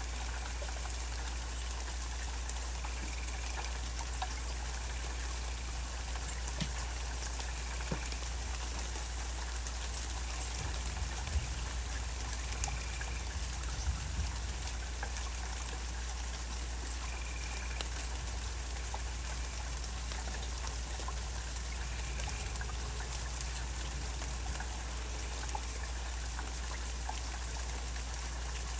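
Steady rain with scattered drips and patters, over a steady low rumble. A short faint call recurs every four to five seconds in the background, and faint high chirps come near the end.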